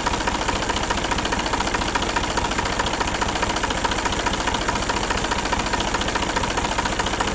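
New Holland 47 hp tractor's diesel engine idling steadily with an even, rapid firing beat, just after a carbon-cleaning additive was injected into it, which the seller says has cut its noise.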